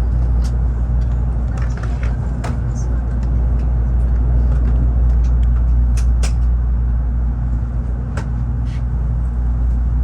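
Cabin noise of a Tokaido Shinkansen train running: a steady low rumble with occasional short sharp clicks and knocks.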